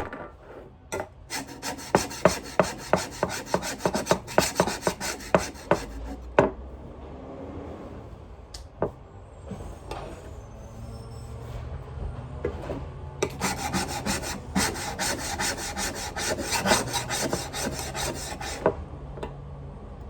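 Fast, repeated rubbing or scrubbing strokes on a vacuum part, in two spells of several seconds each with a quieter gap between.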